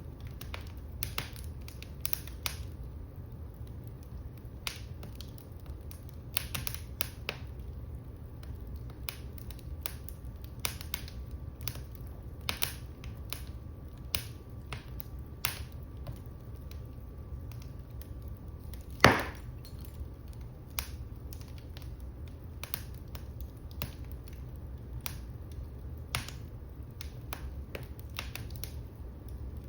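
Wood fire in a fireplace crackling, with irregular sharp snaps over a low steady rumble of the flames, and one much louder pop about two-thirds of the way through.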